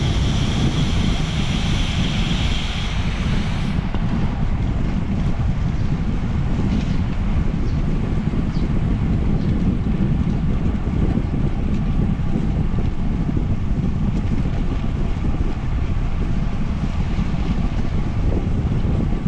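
Steady wind noise rushing over the microphone of a moving bicycle, heaviest in the low end. A higher hiss runs alongside it and stops about four seconds in.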